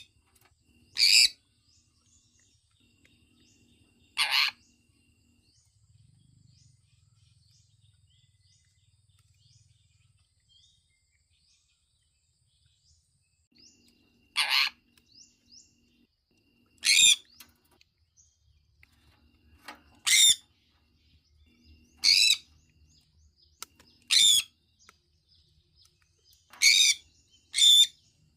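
Sun conure giving short, loud calls, about nine in all, with a pause of roughly ten seconds after the first two and faint small chirps in between.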